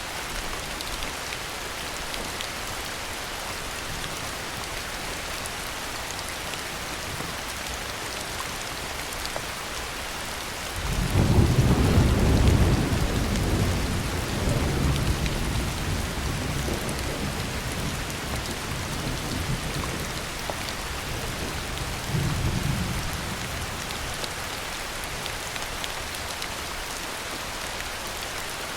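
Steady heavy rain falling, with a roll of thunder that breaks in suddenly about eleven seconds in, rumbles low and fades over several seconds, and a smaller rumble of thunder about ten seconds later.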